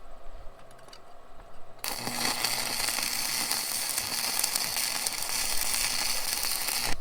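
Electric arc welder running a bead around a washer welded onto a twisted-off bolt, to heat the stuck bolt for extraction. The arc crackles and hisses steadily, starting about two seconds in and stopping abruptly near the end.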